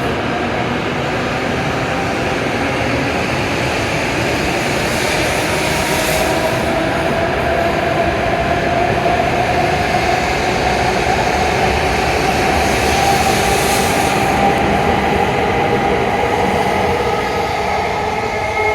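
W7 series Shinkansen train pulling away from the platform. Its traction motor whine rises slowly in pitch as it gathers speed, over a steady rolling rumble.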